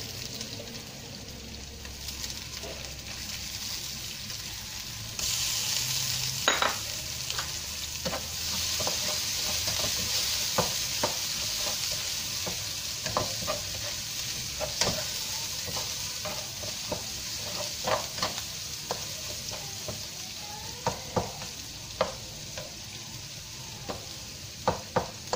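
Minced garlic and prawns sizzling in hot oil in a nonstick wok while a spatula stirs them, knocking and scraping against the pan at irregular moments. The sizzle gets louder about five seconds in and then holds steady.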